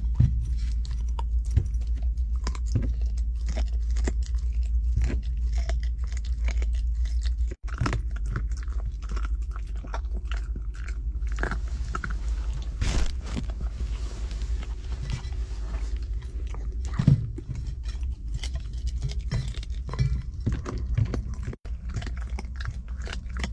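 Close chewing and crunching of stewed chicken on the bone: many small, irregular crunches over a steady low hum.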